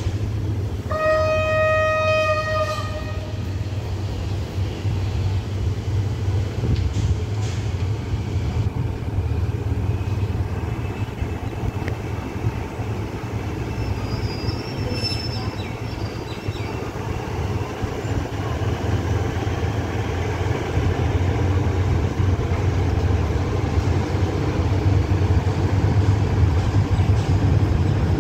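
A train horn sounds once, for about two seconds, a second in. Then comes the steady low rumble of the diesel locomotive and its coaches as the train pulls out of the station, growing louder near the end.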